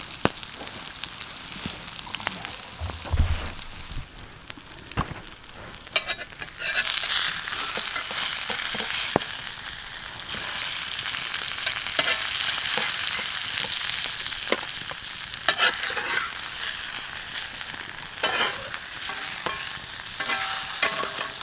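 Sockeye salmon sizzling over a campfire: a steady frying hiss that grows louder about six or seven seconds in, with scattered crackles and pops, and a dull knock about three seconds in.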